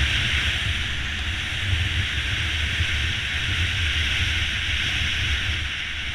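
Honda CB500X parallel-twin motorcycle cruising steadily, its low engine rumble under a loud, even hiss of wind rushing over the microphone.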